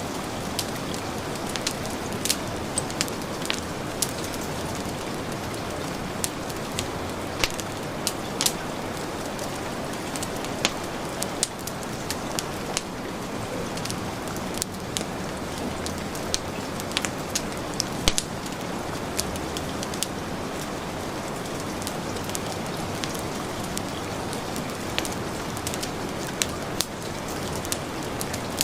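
Heavy rain falling in a steady hiss, with a wood fire crackling and popping in sharp, irregular snaps over it.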